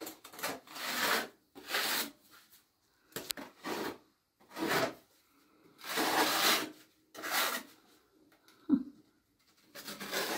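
A hand tool scraping a rough surface in about eight separate strokes, each under a second long. There is a short knock about nine seconds in.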